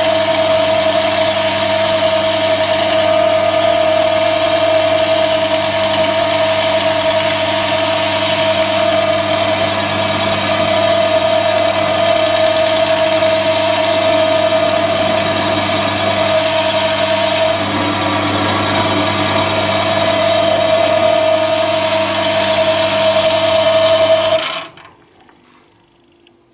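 Chinese mini lathe running steadily with a strong whine from its motor and gears, then switched off about 24 seconds in, the sound dying away quickly.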